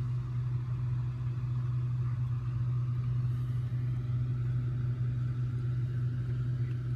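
A steady low machine hum, unchanging in pitch and level.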